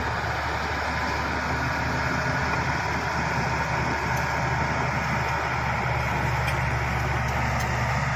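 Shantui SD16 bulldozer's diesel engine running steadily with a low hum and a constant mechanical clatter.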